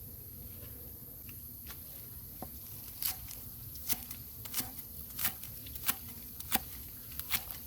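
Crisp clicks or crunches at a fairly even pace, about three every two seconds, starting about three seconds in, over a steady high hiss.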